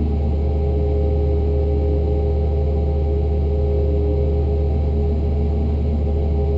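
Cessna 172 piston engine and propeller droning steadily in cruise, heard from inside the cockpit as a constant low hum with a few steady tones above it.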